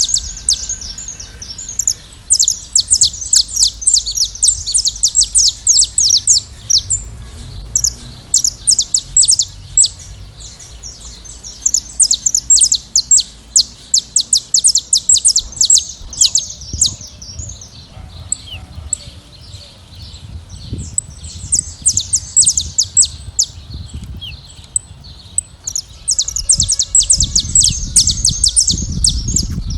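A flock of saffron finches singing and chirping, many rapid high chirps overlapping, thinning out in short lulls and then swelling again. A low rumble sits under the last few seconds.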